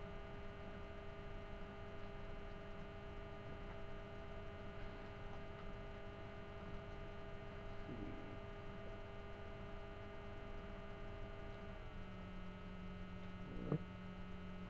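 Faint steady electrical hum, a stack of even tones, which shifts to a slightly different set about twelve seconds in. One faint brief sound near the end.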